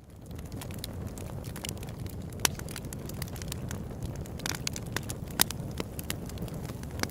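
Open-air wood campfire crackling, with irregular sharp pops over a low steady rumble, two of them louder, about two and a half and five and a half seconds in. The sound fades up from silence during the first second.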